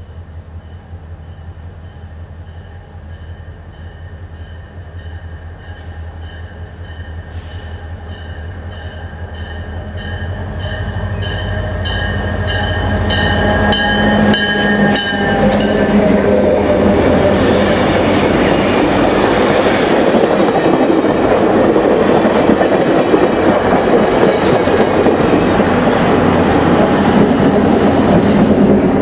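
A pair of EMD diesel road-switcher locomotives (a GP40-2 leading a GP38-2) approaches, their engines droning steadily and growing louder, and passes about halfway through. Passenger cars follow with loud, steady wheel-on-rail rolling noise and some clicking of the wheels over the track.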